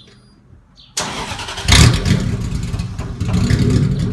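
Lexus 1UZ 4-litre V8 in a 1989 Toyota Hilux starting about a second in, catching with a loud flare and then running steadily. The exhaust has been loosened ahead of the silencer box and resonator, so the engine runs almost open-piped, very loud.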